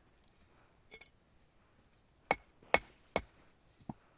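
Hammer blows on metal, each with a bright ring: a light tap about a second in, then three sharp strikes about half a second apart and a softer one.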